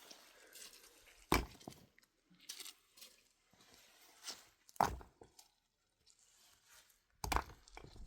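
Three sharp knocks, each a couple of seconds apart, with lighter clicks and rustling in between.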